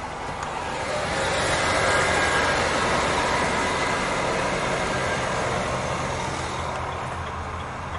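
A truck driving past: its engine and tyre noise swell to a peak about two seconds in and fade away over the next few seconds, over a steady low engine hum.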